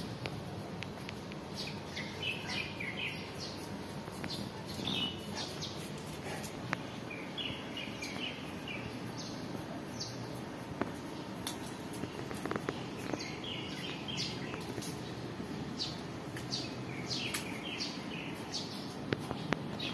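Birds chirping, short high calls repeated in little clusters throughout, over a steady background of outdoor noise with a few faint clicks.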